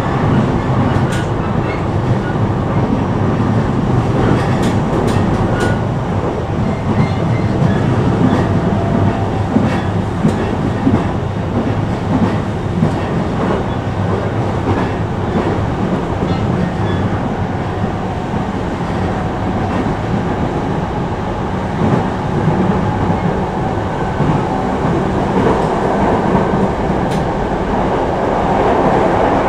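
Running noise heard from inside an E233-5000 series electric commuter car travelling at speed: a steady rumble of the wheels on the rails, with occasional short clicks.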